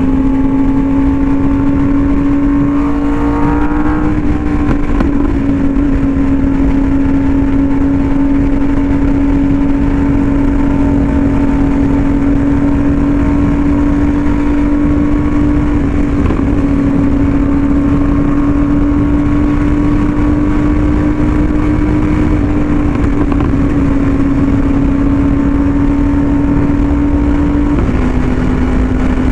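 Yamaha R1M's crossplane inline-four through an SC Project exhaust, held at a steady high rpm while cruising at speed, its note shifting slightly a few times and dropping a little near the end, over a low rush of wind noise.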